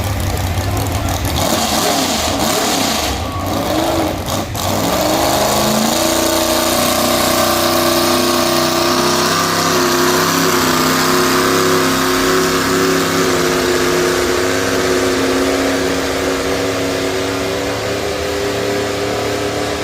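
Pulling truck's engine running, then revving up in pitch about five seconds in and holding at high revs under load, easing off slightly in the second half.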